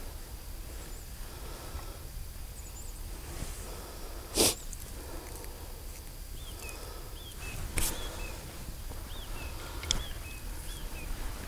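Two sharp, short rasping strikes about three seconds apart, then a smaller click near the end, from lighting tinder for a campfire. A small bird repeats a short downward chirp through the second half.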